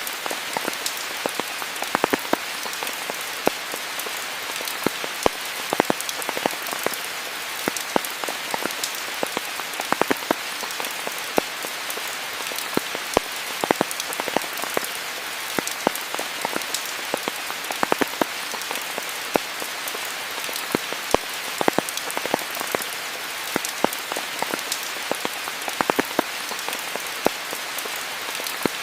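Steady rainfall: an even hiss of rain with many sharp, close drop impacts ticking irregularly through it.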